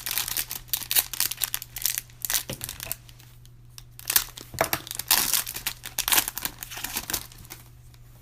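Trading-card pack wrapper crinkling and tearing as a pack of basketball cards is ripped open and handled, in two stretches with a short pause about three seconds in.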